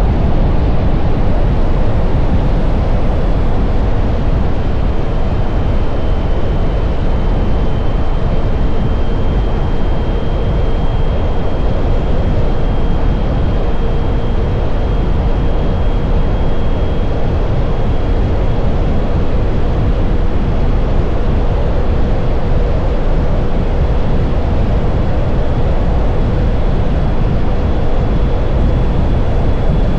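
Steady wind and road rush on a camera mounted on a Can-Am Pulse electric motorcycle riding at a constant speed, with a thin, steady whine above it.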